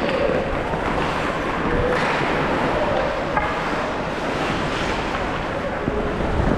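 Ice hockey rink ambience: a steady, even noisy wash of arena sound with faint distant voices mixed in.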